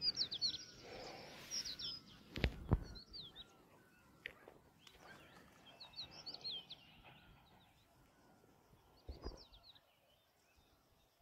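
Birds chirping in short, high phrases that come in several bursts over a faint outdoor background. A couple of dull thumps come about two and a half seconds in.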